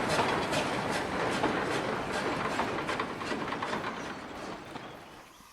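Train running along the line, its wheels clicking over rail joints about two to three times a second, fading away near the end.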